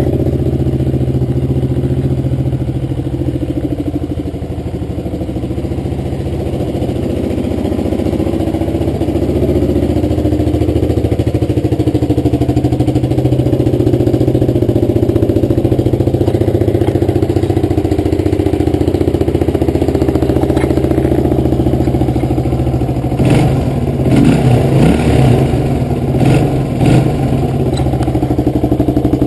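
Suzuki DR350S single-cylinder four-stroke engine idling steadily, then given several quick throttle blips near the end.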